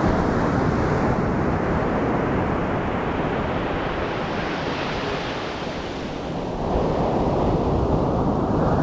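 Ocean surf: waves breaking and washing up the beach in a steady, loud rushing noise, swelling around the middle and again about two seconds before the end.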